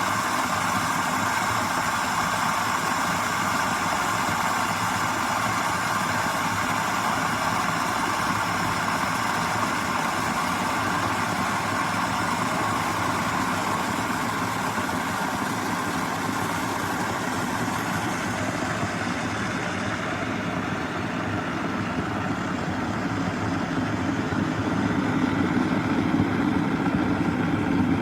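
Electric kettle heating water: a steady rumbling hiss that grows deeper and louder near the end as the water nears the boil.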